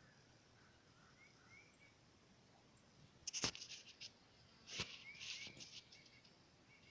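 Faint rustling with two sharp knocks about three and five seconds in, over a few faint bird chirps.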